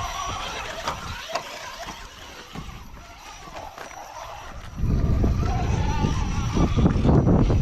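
A rock-crawling buggy's engine runs at low throttle, with a couple of sharp knocks in the first two seconds. From about five seconds in, a much louder low rumble takes over and holds.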